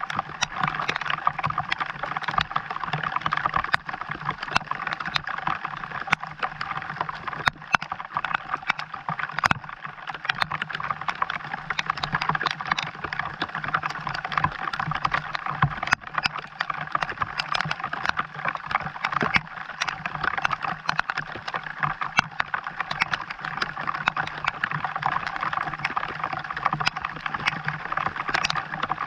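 Steady rain falling, a dense run of small sharp drop hits over a continuous hiss.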